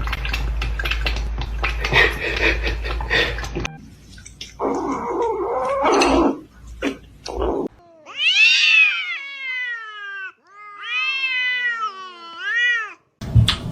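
A cat yowling in two long drawn-out meows: the first rises and falls, the second is longer and wavers up and down. Before them come mixed noisy sounds that cannot be made out.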